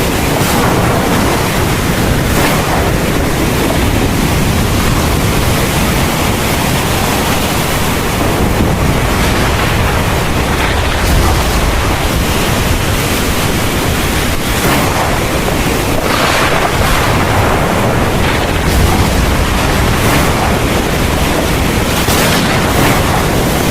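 Heavy thunderstorm rain pouring steadily, a loud, even rushing that swells briefly every few seconds.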